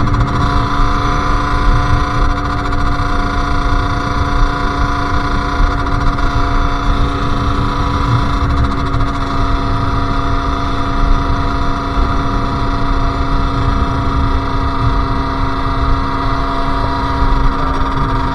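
Sherco SM-R 50's 50cc two-stroke single running at a steady, unchanging pitch, with a low rumble underneath.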